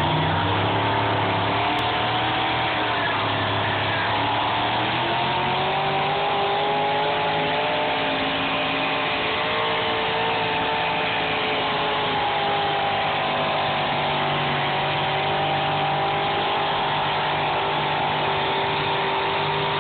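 Pulling tractor's engine running hard under load as it drags the weight sled, a loud steady drone whose pitch wavers slightly up and down.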